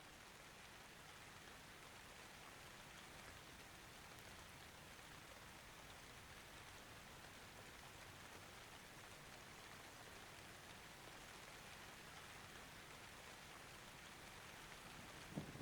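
Faint, steady rain hiss, with the first low rumble of thunder starting right at the end.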